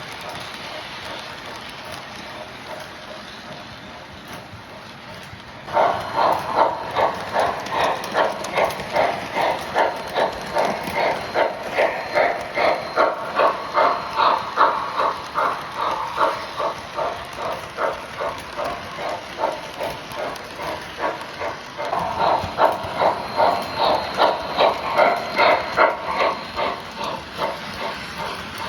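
MTH Pennsylvania Railroad steam turbine model locomotive running on its track, its onboard sound system first giving a soft steady hiss, then from about six seconds in a loud, even pulsing beat at about two to three beats a second. The beat eases a little in the middle and grows louder again near the end.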